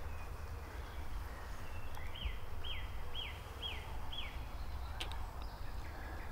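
A bird calls five times in a row, a short high note roughly twice a second, from about two seconds in, over a steady low background rumble.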